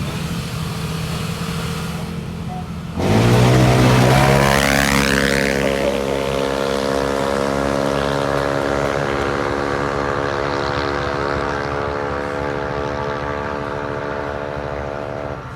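CVT automatic scooter engines launching in a drag run. After a low steady idle, the engines rev hard all at once about three seconds in and climb quickly in pitch. They then hold a steady high rev as the CVT keeps the engine speed constant down the strip, and the sound cuts off sharply near the end.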